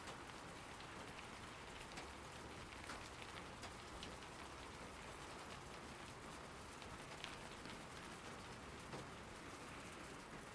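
Steady, fairly faint rain, an even hiss with scattered ticks of single drops hitting a surface.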